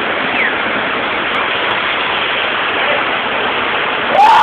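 Waterfall pouring down close by: a loud, steady, even rush of falling water. A voice starts near the end.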